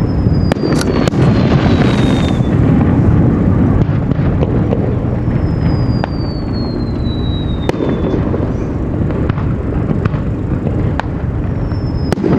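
Fireworks display: sharp cracks of bursting shells over a continuous low rumble, with three whistling shells, each whistle falling slowly in pitch over two to three seconds.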